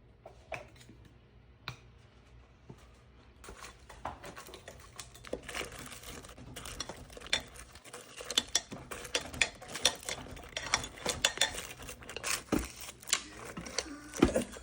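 Kitchen clatter of dishes, pans and utensils: a few faint clicks at first, then, from about four seconds in, a busy run of quick, irregular knocks and clinks.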